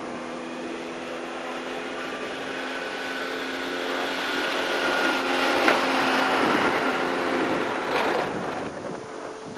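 Propeller airplane engine passing overhead. It grows louder to a peak about six seconds in, then fades.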